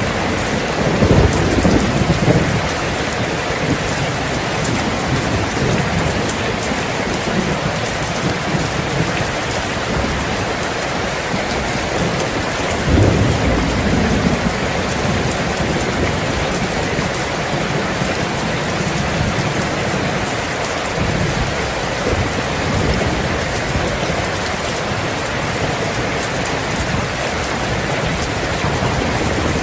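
Steady rain falling, with thunder rumbling low twice: in the first few seconds and again about halfway through.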